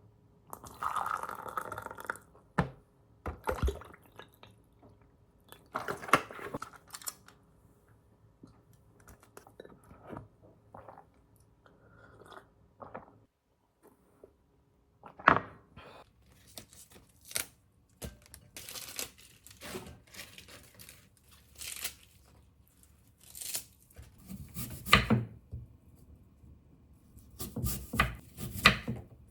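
Assorted kitchen food-preparation noises: irregular knocks, clicks, rustles and crunches of food and utensils being handled, with no steady rhythm.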